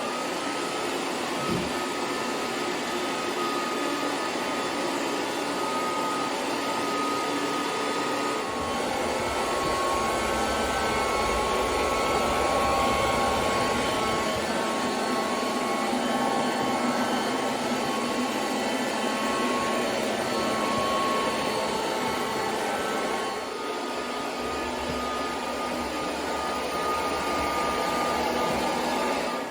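SilverCrest SSR 3000 A1 robot vacuum cleaner running, its suction motor giving a steady whine over brush and airflow noise. A deeper rumble joins about eight seconds in, fades, and comes back for the last few seconds.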